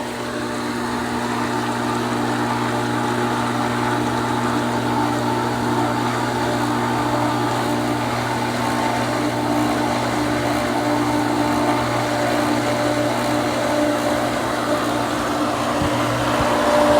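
Pool pump motor running steadily, with water flowing through the plumbing, as the just-cleaned filter is run under pressure to check that it no longer leaks. The hum gets louder over the first couple of seconds, then holds steady.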